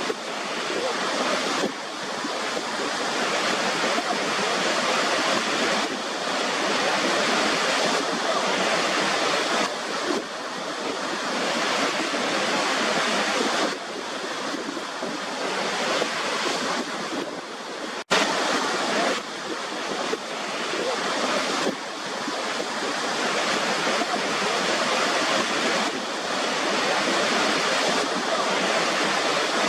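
Waterfall: a steady rush of falling water that swells and eases a little, with one brief cut-out about two-thirds of the way in.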